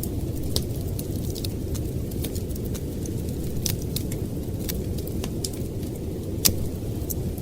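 Wood fire crackling with scattered sharp pops, one louder pop about six and a half seconds in, over a steady low rumble of storm wind.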